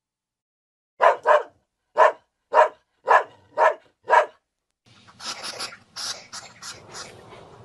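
A dog barking seven short times, starting about a second in. From about five seconds in a quieter, rough, noisy sound with quick clicks takes over.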